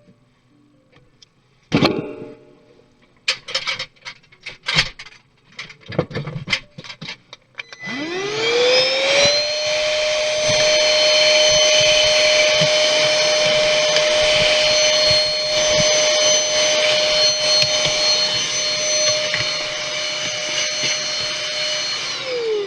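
A few sharp clicks and knocks, then a small high-speed electric motor spins up about eight seconds in. It runs steadily with a whine over a rush of air and starts winding down at the end.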